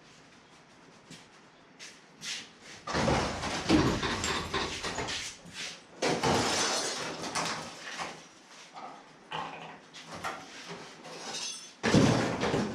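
Irregular knocks and scraping in several bursts, the loudest about three seconds in, around six seconds and near the end: metal body parts being worked on and handled during a car teardown.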